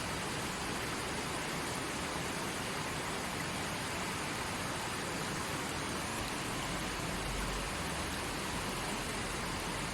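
A forest stream running steadily over rocks: a constant, even rush of water with no single splashes standing out.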